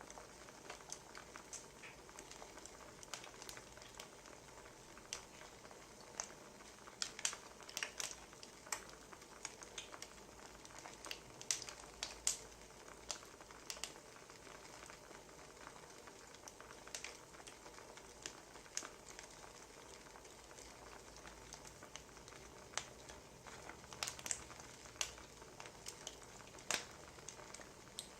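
Wood fire crackling: a soft steady hiss broken by irregular sharp pops and snaps of burning logs.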